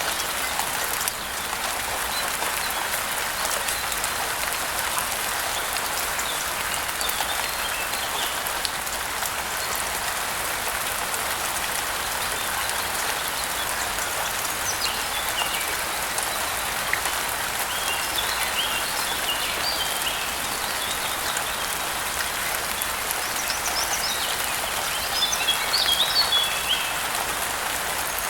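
Steady rain falling, with small birds chirping now and then; the chirping comes more often near the end.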